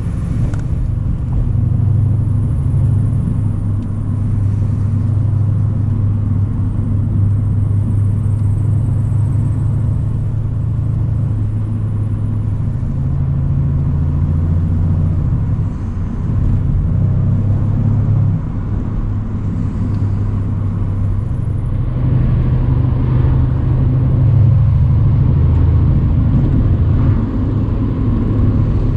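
Mercedes-AMG C63 A205's twin-turbo 4.0-litre V8 running steadily at cruising load: a low, even drone. It dips briefly about halfway through and grows a little louder in the last third as the driver puts on more throttle.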